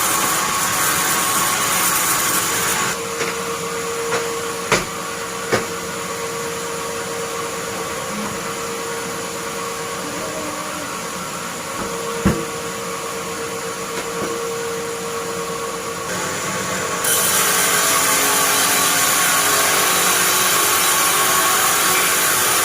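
Sawmill band saw running on pine. It is loud and hissing at the start and again from about seventeen seconds in. In between it is quieter, with a steady hum and a few sharp knocks.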